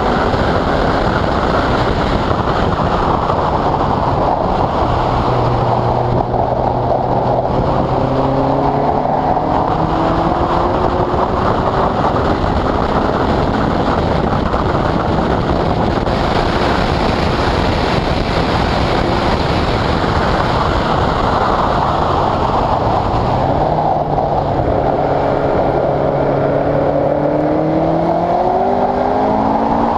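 Westfield sports car's engine heard onboard at speed on a wet track, under heavy wind and road noise. The engine note climbs, holds steady for a few seconds, falls away, then climbs again near the end.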